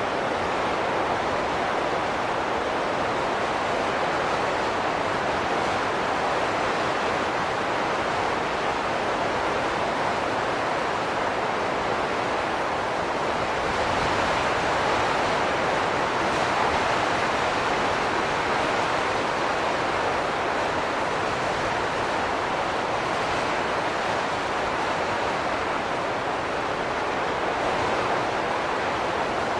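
Wind blowing in a steady, even rush, swelling a little around the middle.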